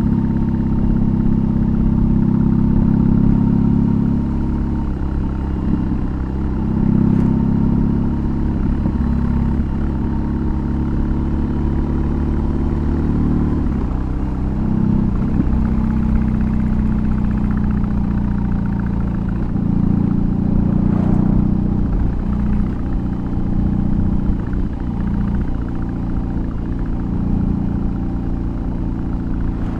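BMW R18's big boxer twin through a custom exhaust, running under way with a deep, steady exhaust rumble that swells and eases several times as the throttle opens and closes.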